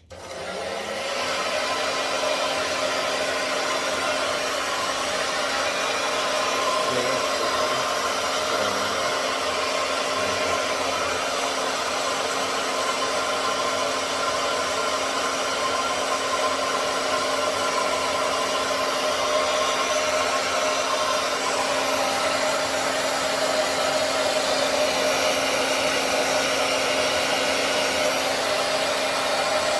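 Hair dryer switched on, reaching full speed within about a second, then running steadily, its even blowing with a low steady hum underneath.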